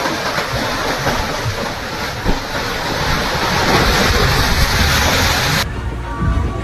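Large ocean waves breaking, with a loud, continuous rush of surf that builds. About five and a half seconds in it cuts off abruptly to a duller, low rumble.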